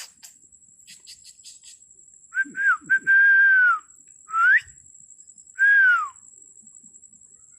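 A person whistling close by: a few short notes, then a long held note that drops at the end, a quick rising note, and another held note that falls away. Steady high-pitched insect chirring goes on underneath.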